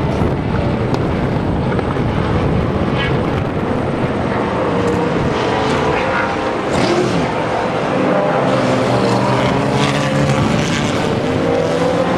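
Classic sports racing car engines running hard, the engine note rising and falling in pitch as the cars accelerate and change speed.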